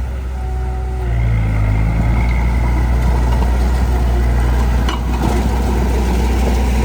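Heavy diesel engine of earthmoving machinery running steadily, growing louder about a second in.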